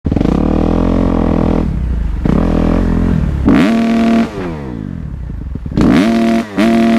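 Dirt bike engine running and revving: the pitch climbs and holds about three and a half seconds in, falls away as it slows, then revs up hard again near the end.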